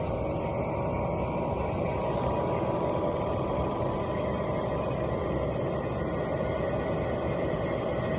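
Diesel air heater running in its start-up phase with the glow plug still on: a steady blower whir with a faint thin whine above it.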